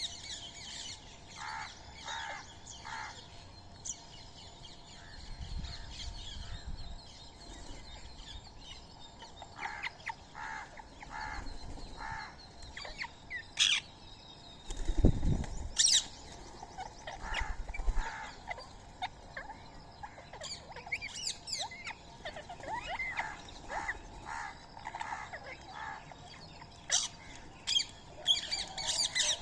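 Several birds calling: short shrill chirps and squawks, some in quick runs of repeated notes, typical of Indian ringneck parakeets and other birds at a feeding spot. A few low fluttering rumbles sound between the calls, the loudest about fifteen seconds in.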